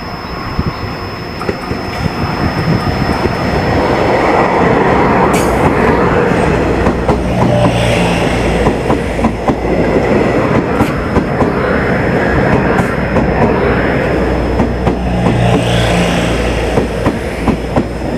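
A train running close by on the rails, its wheels clacking rapidly over the joints. It grows louder over the first few seconds, then stays loud, with a low hum rising and fading twice.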